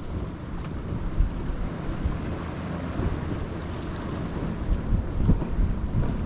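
Wind buffeting the microphone in uneven gusts, over the wash of water along a sailboat under way.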